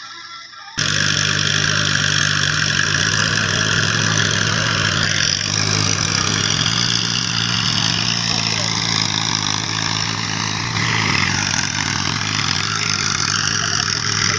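Tractor diesel engine running steadily close by, starting suddenly about a second in.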